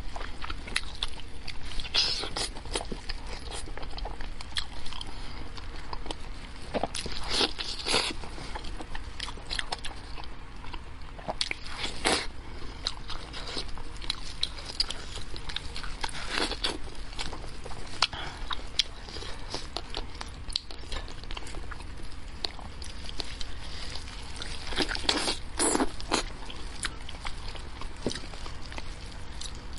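Close-miked ASMR eating: wet chewing and biting on braised sheep's-head meat and cartilage, with a few louder crunching bites scattered through.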